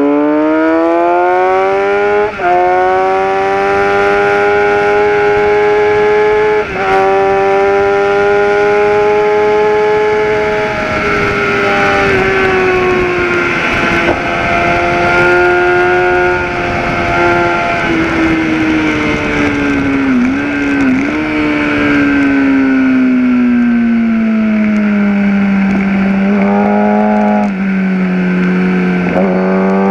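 Gen4 Kawasaki ZX-10R inline-four engine at speed on a race track: it revs up hard and upshifts twice early on, holds high revs, then eases off and downshifts with short throttle blips near the end before accelerating again. Wind rushes steadily over the on-board microphone.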